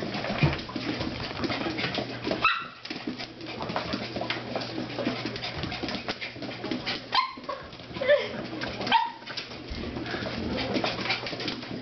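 A dog giving about four short yelping cries while chasing around, with scattered clicks and scuffling between them.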